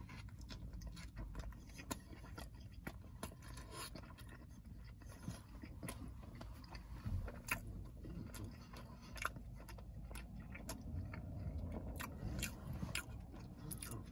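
Close-up eating sounds of a man biting into and chewing a Detroit coney dog, a hot dog in a soft bun with chili sauce and onions. There is a bite at the start, then chewing with many small sharp mouth clicks over a faint low rumble.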